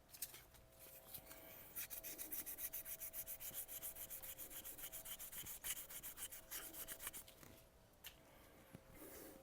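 Sandpaper rubbed by hand in quick back-and-forth strokes, about six a second, over the inside face of a knife-sharpening jig's clamp jaw, taking off old tape glue and flattening the surface. The strokes start about two seconds in and stop near the end, with a few lighter rubs after.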